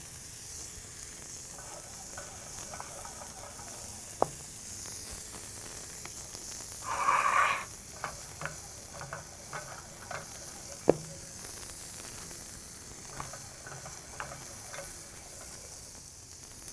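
Food sizzling steadily on a hot steel griddle: plantains and onions frying in oil, with burger patties cooking beside them. A few sharp clicks and a brief rasp come from buns and metal utensils being handled.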